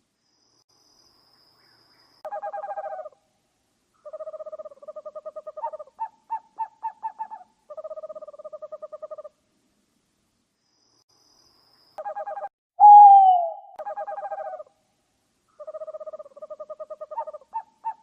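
Eurasian eagle-owl calling: bursts of rapid pulsing, trilled calls with short pauses between them, and runs of short separate notes. About 13 s in comes one long, louder call that falls in pitch, the loudest sound of the stretch.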